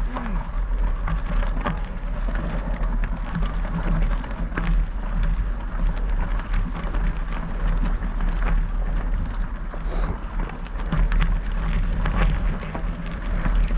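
Bicycle tyres rolling over gravel, a steady crackle of many small ticks, over a constant low rumble of wind on the microphone.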